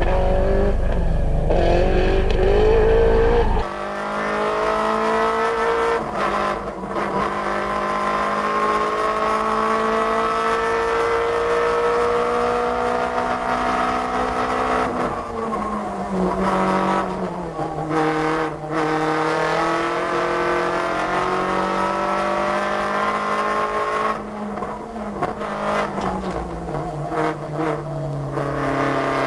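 Rally car engines at full throttle on a stage. The pitch climbs through long pulls and drops back at the gear changes, about 15 and 24 seconds in. The sound changes abruptly about four seconds in, when a different car takes over.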